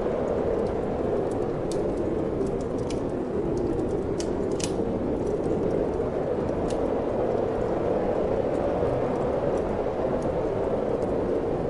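Wood fire crackling in a fireplace, with scattered sharp pops and snaps, over a steady rushing of wind.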